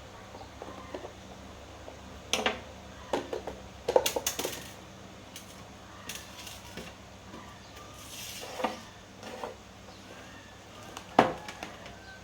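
Scattered knocks, clicks and light clatter of hard objects being handled and set down, half a dozen separate strikes with short pauses between them.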